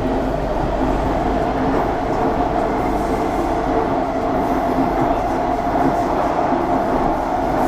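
Kawasaki-Sifang C151A metro train running between stations: a steady rumble of wheels on rail with a steady hum over it.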